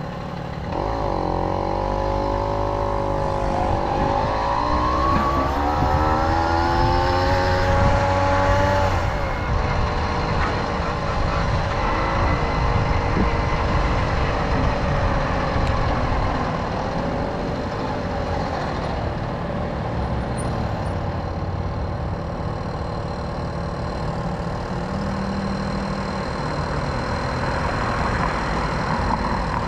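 A Tomos Silver Bullet moped's small two-stroke engine running under way. Its pitch dips about half a second in, climbs steadily for several seconds as it accelerates, then settles to a roughly even cruising speed.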